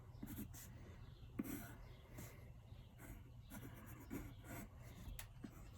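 Faint, irregular scratching strokes of someone drawing quickly on paper.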